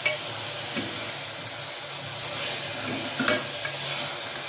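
Onions, tomatoes and ginger-garlic paste sizzling in oil in a pressure cooker while a steel spoon stirs them. The spoon scrapes and clicks against the pot a few times, most sharply about three seconds in.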